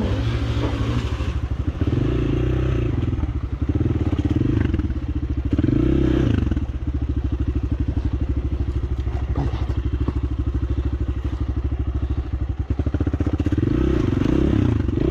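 Small-displacement motorcycle engine running while a rider crosses a river ford, the throttle opened in several surges about two seconds apart and again near the end, as the rear wheel slips on slippery stones underwater.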